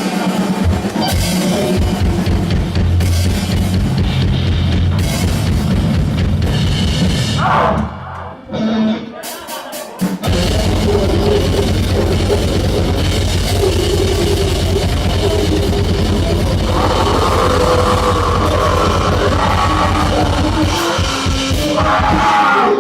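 Noisecore band playing live: a dense wall of distorted sound over fast drumming. It drops back briefly about eight seconds in, then crashes back in at full volume.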